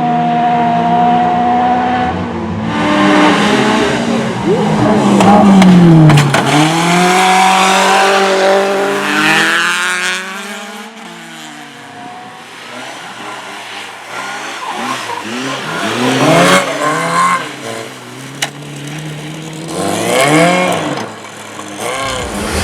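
Rally cars passing at speed. One engine comes by loudly, its pitch sweeping down as it passes about six seconds in. Later another revs up and down repeatedly as it comes through, with throttle lifts and gear changes.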